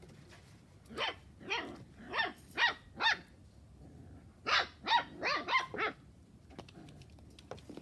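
Puppies barking: two runs of short, high-pitched yaps, about five in each, a couple of seconds apart, with each yap falling in pitch.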